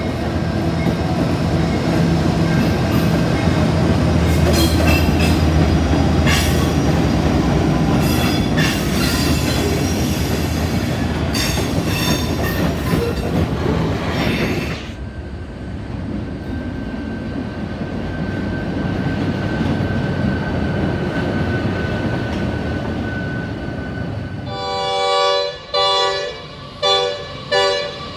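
An NR-class diesel-electric locomotive passes with a steady engine drone, followed by freight wagons clattering over the rails. After a sudden cut, a train rumbles as it approaches, and near the end its locomotive horn sounds four short chord blasts.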